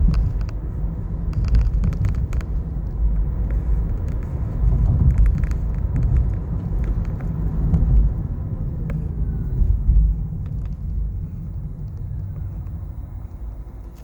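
Nissan Leaf driving, with steady road and tyre rumble inside the cabin and several short, sharp clicks and knocks. These fit the driveshaft knock that this car is known for, heard near the accelerator as it speeds up and slows down. The rumble fades over the last few seconds.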